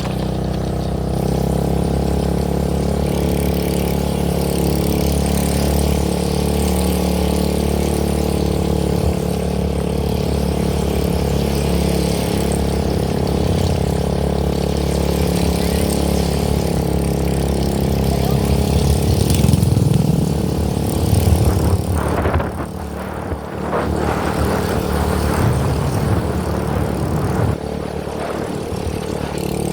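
A steady motor drone, like an engine running, with a louder, uneven stretch about two-thirds of the way through and a brief dip just after.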